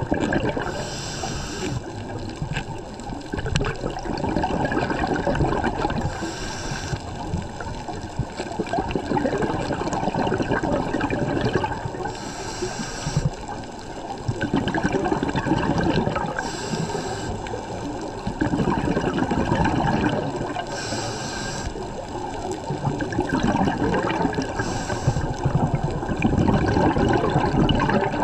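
Scuba diver breathing through a regulator underwater: a short hiss about every four seconds alternating with longer rushes of exhaled bubbles.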